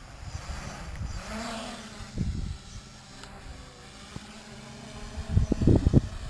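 Small quadcopter's four brushless outrunner motors (RCTimer A2208 1450KV) with 8x4.5 propellers, giving a steady electric hum that rises in pitch about a second in and then holds. Gusts of wind buffet the microphone, loudest near the end.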